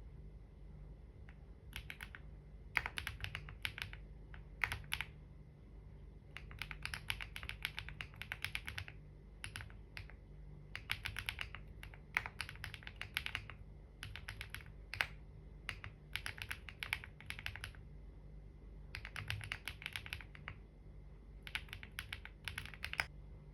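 Typing on a computer keyboard: quick runs of key clicks in bursts of a second or two, with short pauses between them.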